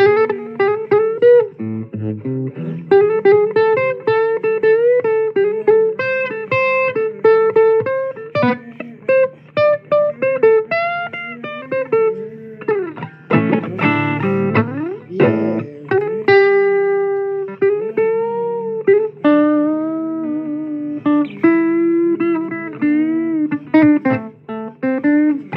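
Blues guitar solo: plucked electric guitar notes, many of them bent, over a stepping bass line.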